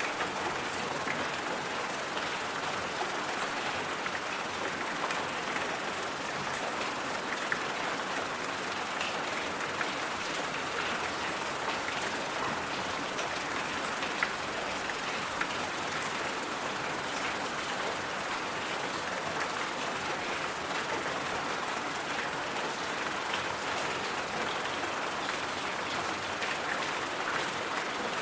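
Steady white-noise hiss, strongest in the upper-middle range, with scattered faint ticks and a few sharper clicks.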